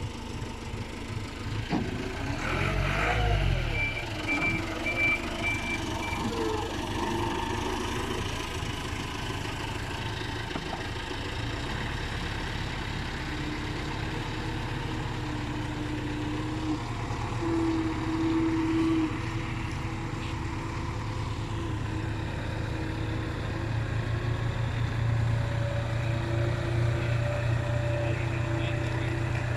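Heavy diesel machinery running steadily, its deep engine drone growing stronger in the second half. A short run of about five high beeps sounds about four seconds in.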